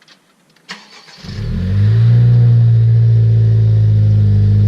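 A 2017 Honda Civic's 1.5 L turbo four-cylinder starting: a click about a second in, then the engine catches, flares up and settles into a loud, steady idle. It breathes through a catless RV6 downpipe with the muffler deleted.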